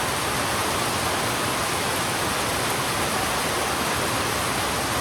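Heavy rain falling steadily on a road, an even hiss.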